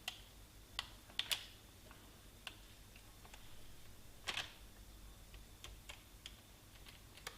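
Scattered light clicks and taps of a spoon against the bowl and tray as thick tablet mixture is scraped out, irregular, with the loudest tap about four seconds in.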